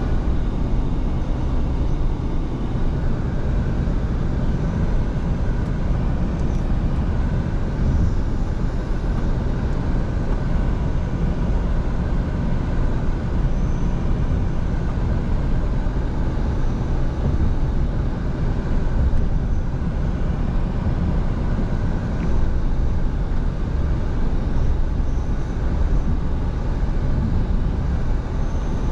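Scania V8 truck driving at a steady speed: a continuous low engine drone and road rumble with no change in pitch.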